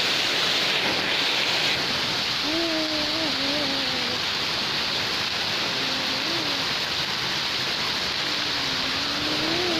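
Heavy rain falling steadily on wet tiles, puddles and bare ground, a constant even hiss.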